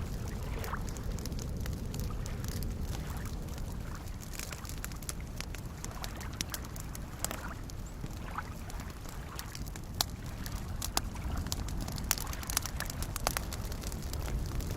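Wood fire crackling with sharp pops over gently lapping lake water. The pops come more often and louder in the second half.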